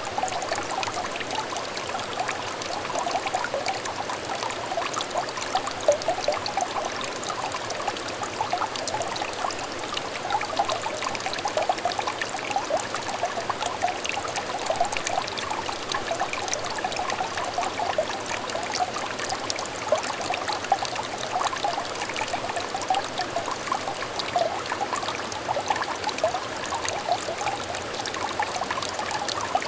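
Small stream of water trickling and burbling steadily, a constant chorus of little bubbling plinks over a soft rushing wash.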